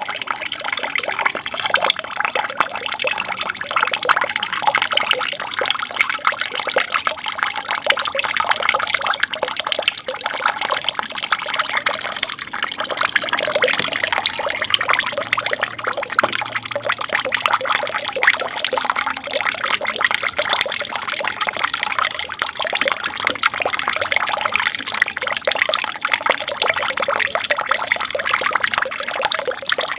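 Water from a small aquarium waterfall pouring and splashing into the tank, a steady babbling trickle.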